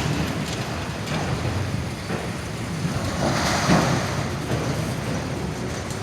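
Freight train rolling past a crossing as it gets moving again after a stop, a steady rumble that swells briefly about three and a half seconds in.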